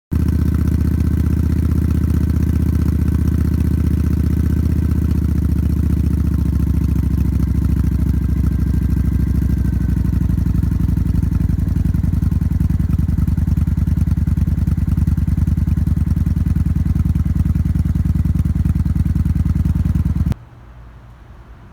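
Motorcycle engine idling steadily, then cutting off suddenly near the end.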